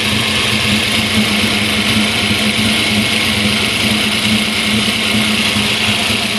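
Car engine idling steadily and loudly while its ignition timing is being set through an aftermarket ECU with a 36-minus-1 crank trigger wheel.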